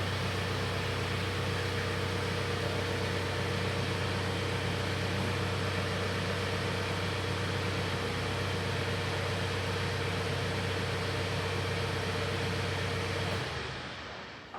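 BadBoy 5045 tractor engine running steadily with a low hum and a steady whine above it. The sound falls away about a second before the end.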